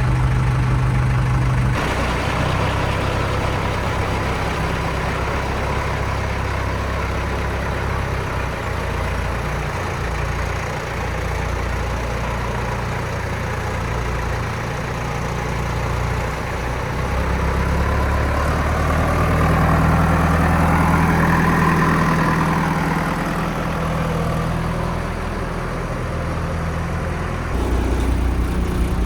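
JCB 3DX backhoe loader's diesel engine running and working under load, its revs rising and falling as the hydraulics dig and load, louder for a few seconds past the middle.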